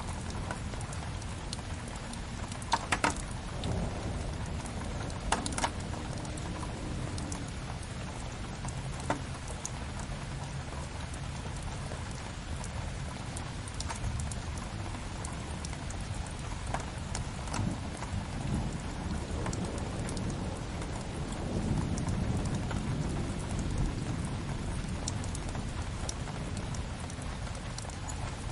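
Steady rain falling, layered with a crackling wood fire whose sharp pops stand out loudest about 3 and 5 seconds in. A low rumble swells for a few seconds past the middle.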